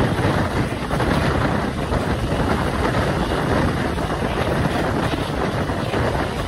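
Steady rush of wind on the microphone outside the window of a moving passenger train, mixed with the running rumble of the coaches on the track.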